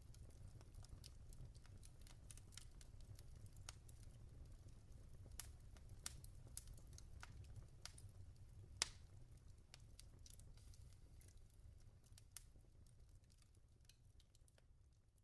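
Faint wood fire in a fireplace: a low rumble of the flames with scattered crackles and pops from the burning logs, fading out near the end.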